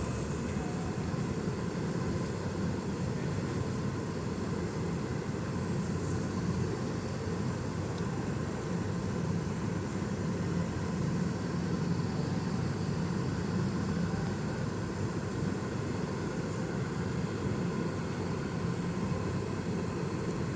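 Boeing 717's two Rolls-Royce BR715 turbofan engines running steadily: an even low rumble with a faint steady hum, no rise or fall in pitch.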